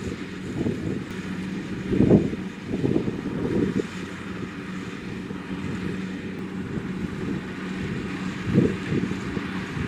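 Kubota DC-70 Plus rice combine harvester running with a steady drone. Gusts of wind buffet the microphone, the strongest about two seconds in and again near the end.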